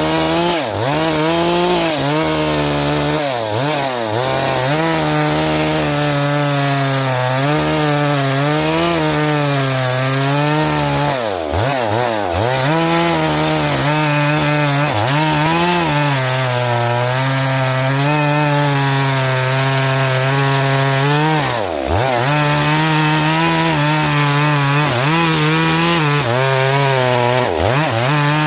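Two-stroke chainsaw running at high speed while cutting wood, its pitch sagging briefly and recovering several times as the chain loads up in the cut.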